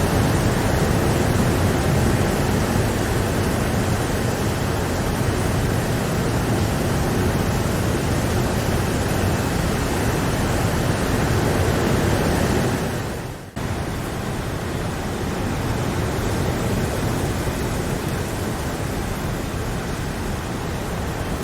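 Steady rain, an even hiss with no single drops standing out. About thirteen seconds in, the sound fades down, cuts out for an instant and comes back a little quieter, like a loop being restarted.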